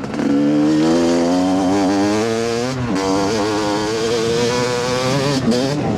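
250 cc dirt bike engine revving under load, its pitch climbing for a few seconds, then dropping sharply about halfway through as the throttle is rolled off or a gear is changed, before it pulls again at a steadier pitch.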